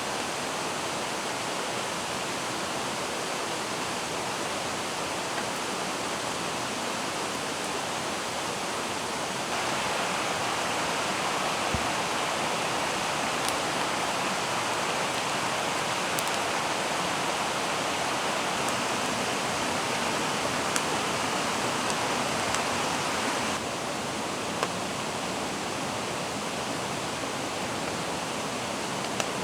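Steady rushing of a mountain stream. It gets louder and brighter about ten seconds in and drops back again around twenty-four seconds, with a few faint ticks on top.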